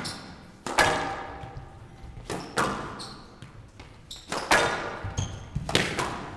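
Squash rally: the ball is struck by rackets and smacks off the court walls, four sharp hits about one and a half to two seconds apart, each echoing in a large hall.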